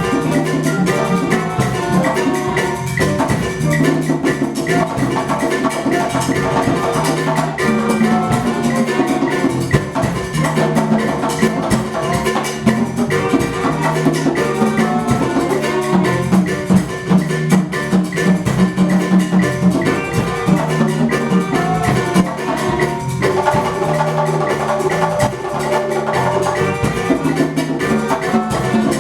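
Live percussion ensemble playing: pitched struck notes over drums in a steady, busy rhythm.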